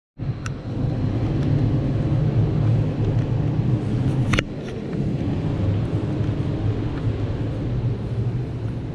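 Steady low rumble of city street traffic, with a single sharp click a little over four seconds in.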